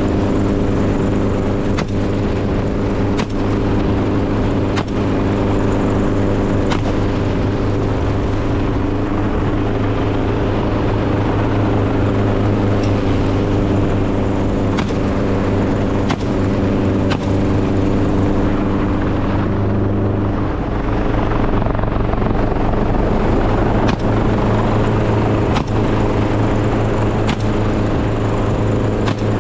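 An engine running steadily, with occasional knocks, its note shifting about two-thirds of the way through.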